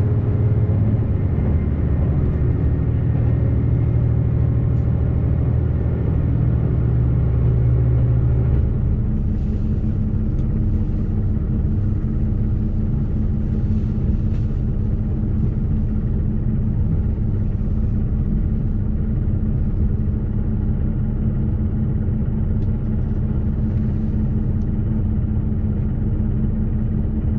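JR Shikoku 2700 series diesel railcar, a heavy low rumble as it runs. About eight seconds in this eases into a steadier, quieter hum with one constant tone, as the train comes to a stop at a station.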